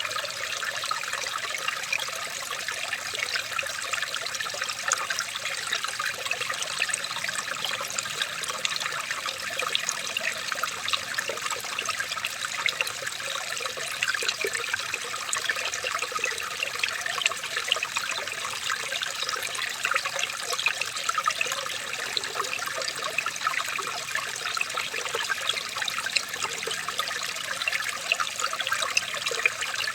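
Running water trickling steadily, with many small splashes and gurgles, as of a small natural stream.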